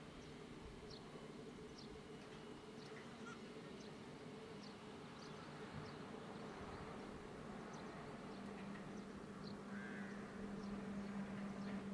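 Faint, steady hum of an Airbus A320's jet engines, rising a little in the last few seconds, with short high chirps of birds or insects scattered throughout.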